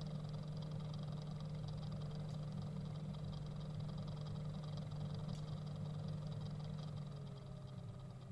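Aqua Computer high flow NEXT flow sensor rattling with a fine, fast buzz over the steady hum of the water-cooling loop's pump. About seven seconds in, the hum dips slightly in pitch and gets quieter.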